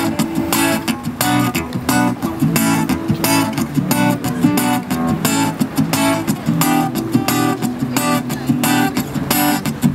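Live street-band music: a guitar strumming chords in a steady, even rhythm, with no singing in this stretch.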